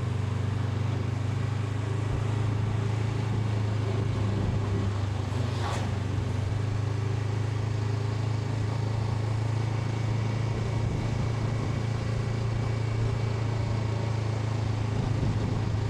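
Honda NX500's parallel-twin engine running at a steady, unchanging speed, a constant low hum with wind noise over it. A brief sharp noise cuts across it about six seconds in.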